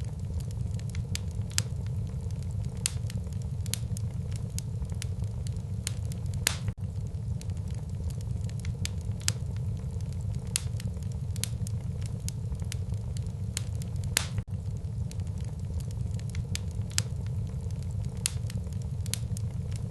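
Wood fire burning in a fireplace: a steady low rumble of flames with sharp crackles and pops at irregular intervals, about one a second.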